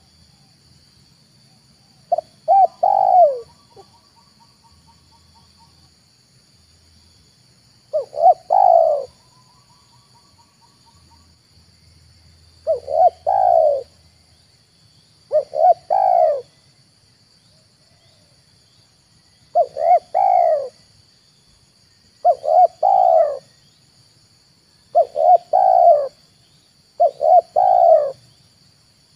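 Spotted dove cooing: eight short phrases of two or three quick coos, one every few seconds. A steady faint high-pitched whine runs behind them.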